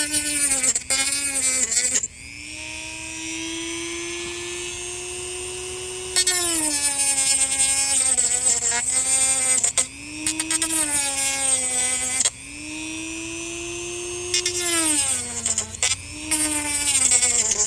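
Dremel rotary tool cutting into the thick shell of a dried gourd: a high motor whine that drops in pitch and turns louder and harsher while the bit bites in, like a dentist's drill. About two seconds in and again about twelve seconds in it runs lighter for a few seconds, steadier and higher.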